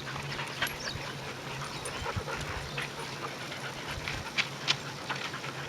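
Dogs moving about, with scattered short clicks and knocks, the loudest two a little past four seconds in, over a faint steady low hum.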